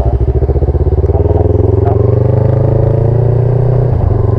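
Yamaha YZF-R3's parallel-twin engine running under way, its pitch climbing gently for about two seconds and then holding steady, with a brief dip near the end.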